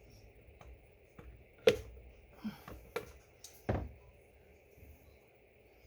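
Sharp clicks and knocks of a hand tool working a radiator hose clip, scattered and irregular, the loudest about a second and a half in and another near four seconds.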